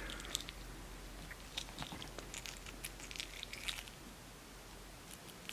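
Baby squirrel monkey eating raw quail egg: faint, scattered small clicks and chewing sounds.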